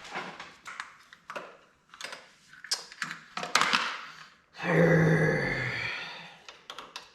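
Scattered light clicks and taps, as of small parts being handled, then about four and a half seconds in a louder sustained sound that starts suddenly and fades away over about two seconds.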